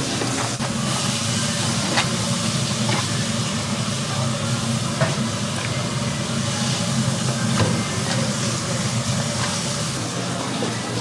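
Steady commercial kitchen noise: a constant hiss over a low hum, with a few sharp clicks now and then.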